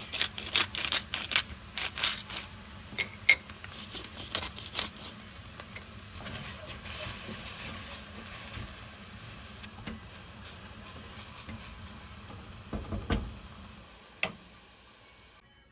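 Cooking sounds: a utensil clicking and scraping, most busily in the first few seconds, over a steady sizzle-like hiss that cuts off suddenly near the end.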